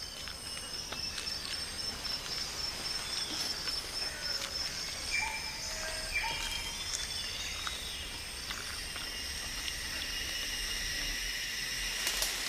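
Tropical rainforest ambience: insects holding steady high-pitched drones, with short bird calls scattered through.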